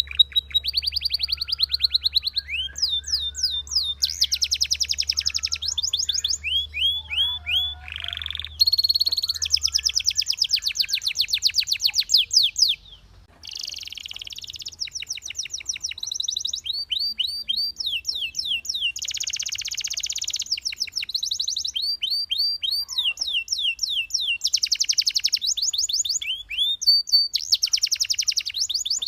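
A Belgian canary singing a long song of fast repeated notes and rolling trills, high-pitched, with one brief pause about thirteen seconds in.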